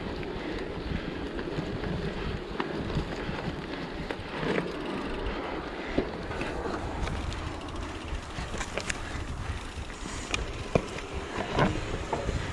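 Mountain bike riding over a trail: steady tyre and wind noise on the microphone, with scattered clicks and knocks from the bike rattling.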